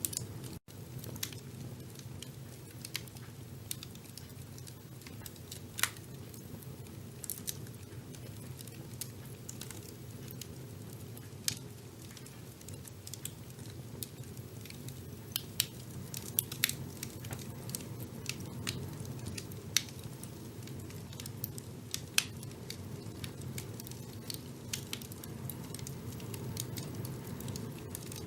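Wood fire burning in a fireplace: a steady low rumble of flames with sharp crackles and pops at irregular intervals, a few of them louder snaps. The sound cuts out for an instant about half a second in.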